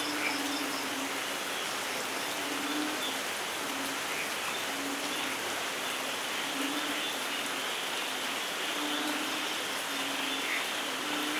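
Steady rainfall, an even hiss, with a frog's low call repeating about every two seconds and a few faint high chirps.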